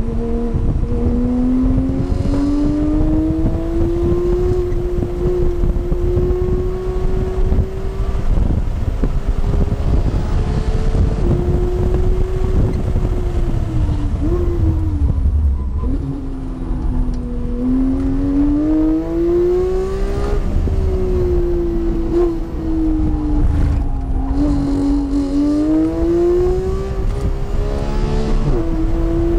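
Porsche engine heard from inside the cabin on a track lap. Its note climbs under hard acceleration, breaks at gear changes and falls away under braking several times, over a steady rumble of road and wind noise.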